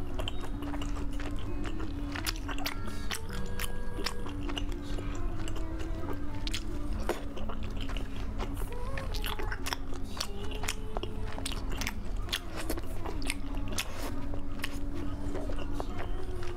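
Close-miked chewing and biting of soft, sauce-glazed food, with many short wet mouth clicks scattered throughout. Background music with long held notes plays underneath.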